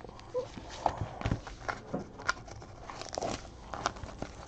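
Trading cards and pack wrappers being handled on a table: irregular light taps, clicks and rustles.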